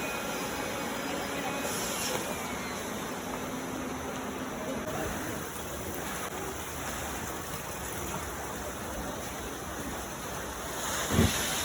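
Steady rushing noise throughout, with one short, loud thump near the end.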